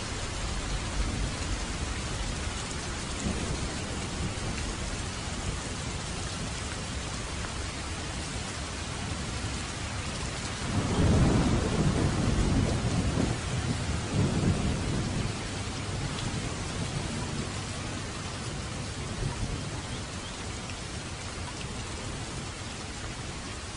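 Heavy rain pouring on an asphalt road and trees, a steady even hiss of drops. About eleven seconds in a deep roll of thunder swells up twice and dies away over some four seconds.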